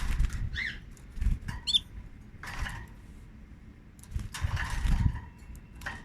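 Canaries giving a few short chirps in the first couple of seconds, then fluttering their wings with bursts of rustling.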